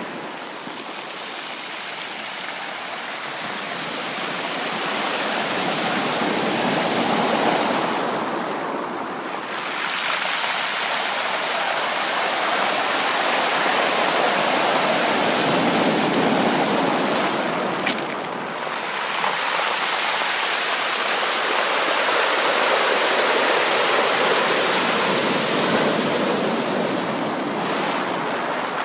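Sea waves washing onto a beach: a continuous rushing surf that swells and eases about three times, roughly every eight seconds.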